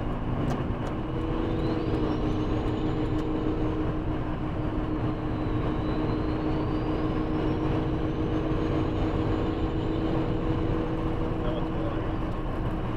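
Turbocharged Toyota 1MZ-FE V6 of a 2001 Camry LE running steadily while driving at an even pace, with a faint high whine that rises and falls twice.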